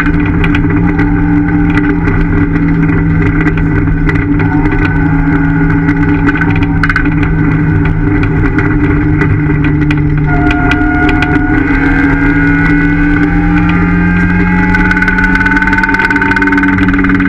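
Ford Fiesta ST's engine pulling hard, heard from inside the cabin: a loud, steady engine note that dips slightly about ten seconds in and then climbs again, with frequent short sharp clicks over it.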